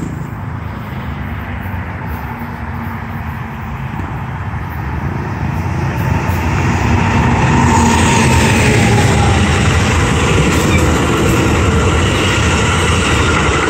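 Coaster commuter train passing at speed, the steady rumble of its wheels and cars on the rails growing louder about six seconds in as it draws level.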